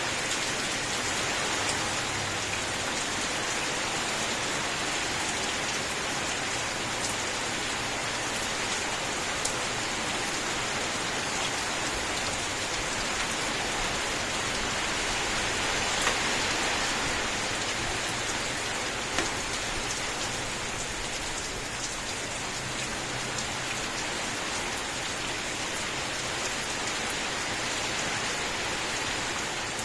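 Steady rain falling on a surface, a dense even hiss with a few sharper single drop ticks standing out now and then.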